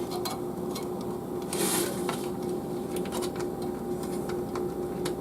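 Light clicks and a brief rustle of plastic fan cables and a connector being handled and pushed onto a motherboard fan header, over a steady hum.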